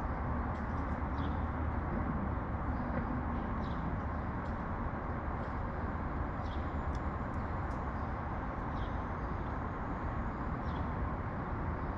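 Steady rumble of city traffic, with short, faint sparrow chirps every second or two over it.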